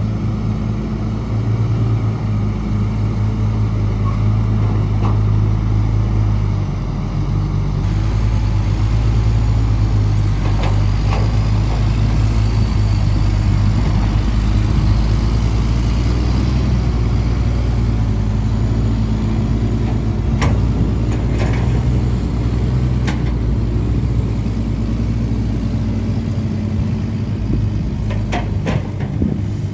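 Heavy diesel engine of construction machinery running steadily with a deep drone, with a few sharp knocks about a third and two-thirds of the way in and again near the end.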